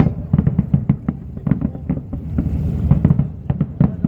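Fireworks display going off in a rapid barrage: many irregular sharp bangs and crackles, several a second, over a steady low rumble.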